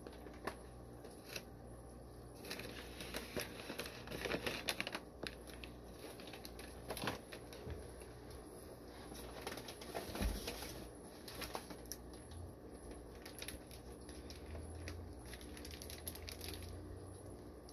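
Faint crinkling and crackling of plastic fish shipping bags being handled, with scattered irregular clicks.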